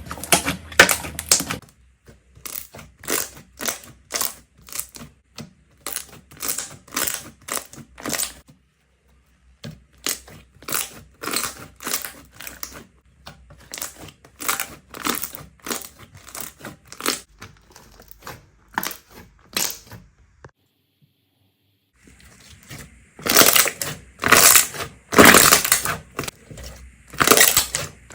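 Slime being pressed and squished by hand, giving a run of short crackling, popping strokes about one or two a second, with two brief breaks, the strokes louder near the end.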